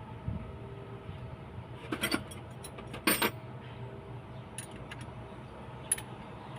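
A few sharp metallic clinks and rattles of hand tools or engine parts being handled, the loudest about three seconds in, over a steady low hum.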